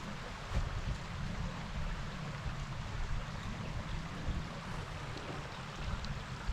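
A creek running steadily, with wind buffeting the microphone as a low, uneven rumble.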